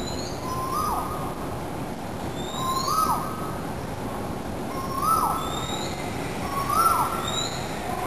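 A bird calling repeatedly: a short whistled note that rises and then falls away sharply, given four times about two seconds apart, each with fainter high thin notes around it, over a steady outdoor background hiss.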